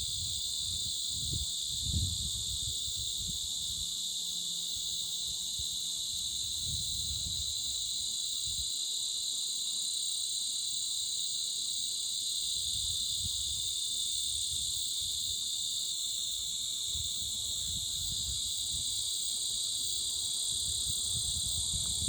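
A summer insect chorus: a loud, steady, unbroken high-pitched drone with no pauses.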